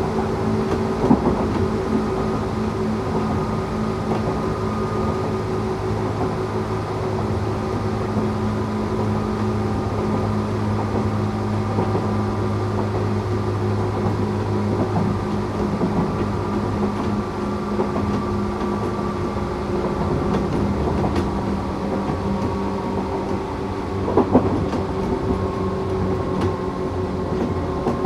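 Running sound of a Tokyu 8500 series electric train with Toyo-made traction motors: a steady whine of motor and gears at a nearly constant pitch over wheel rumble, with a few sharp rail-joint knocks about a second in and again near the end.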